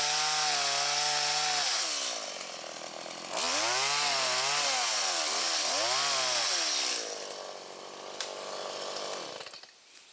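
Chainsaw bucking a felled log of about 9 inches diameter to length. It runs at high throttle, drops to idle about two seconds in, revs again with its pitch dipping and rising for a few seconds, then falls back to idle and fades near the end.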